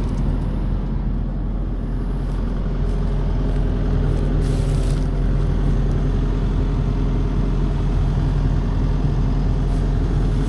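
Excavator's diesel engine running steadily at idle, with a short hiss about four and a half seconds in.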